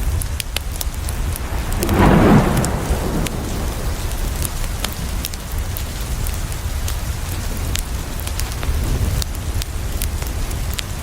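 Steady rain with a deep low rumble, and a swell of thunder about two seconds in. Scattered sharp crackles of a wood fire run through it.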